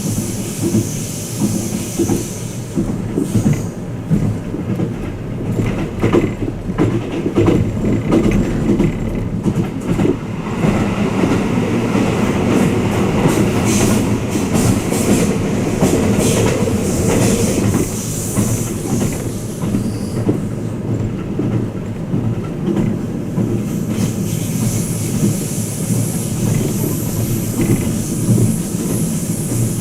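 Twilight Express Mizukaze train running, heard inside a passenger cabin: a steady rumble of wheels on rails with irregular clacks. A high hiss comes in for the first couple of seconds and again near the end.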